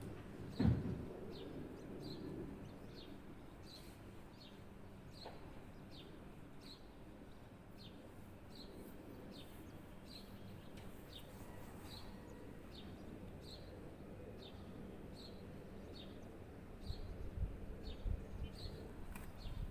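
A bird chirping over and over: a short, high, falling chirp about once every 0.7 seconds. A low thump comes about a second in, and a few more thumps come near the end.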